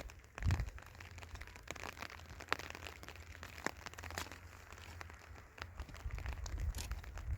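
Plastic sheeting crinkling, with scattered sharp ticks and bursts of low rumble.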